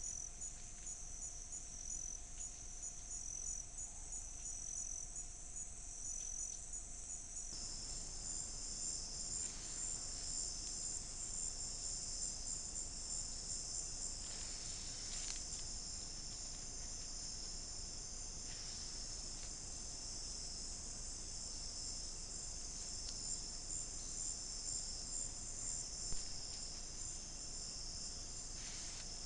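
Rainforest insect chorus of crickets and similar insects: high shrill trilling, pulsing in the first few seconds, then a denser, steadier chorus after an abrupt change.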